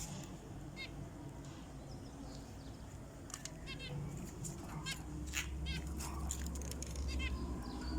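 Zebra finches calling in short repeated notes, with scattered clicks and brief flutters. A low hum comes in about five seconds in.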